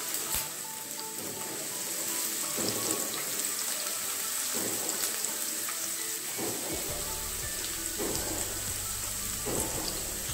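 Chopped onion and garlic cloves sizzling in hot oil in a nonstick kadai: a steady frying hiss with small crackles.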